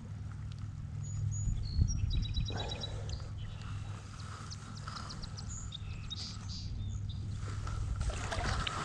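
Wild birds chirping, with a quick trill about two seconds in, over a low steady rumble.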